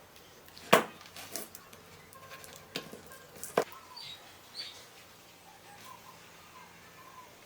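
A few sharp knocks or clicks, the loudest about a second in, with faint bird chirps in the background.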